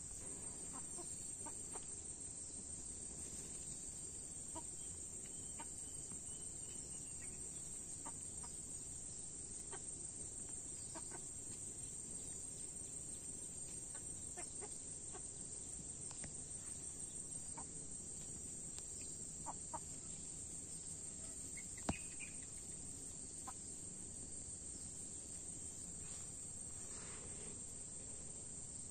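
Faint farmyard ambience: chickens clucking now and then over a steady high-pitched hiss, with one sharp click about two-thirds of the way through.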